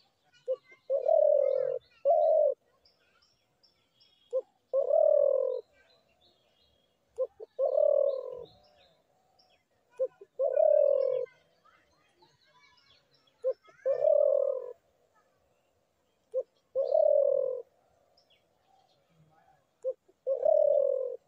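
Spotted dove cooing, repeating the same phrase about every three seconds: a short note, then a longer, slightly falling coo. Faint chirps of small birds sound between the phrases.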